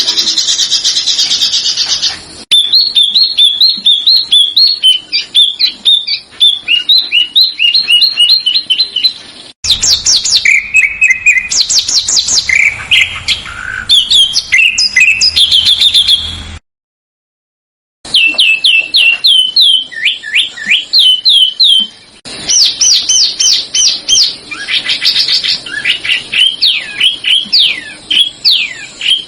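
Recorded songbird songs cut together: fast series of high, repeated chirps and trills, switching abruptly from one bird's song to another every few seconds. There is a short silent gap at about 17 seconds.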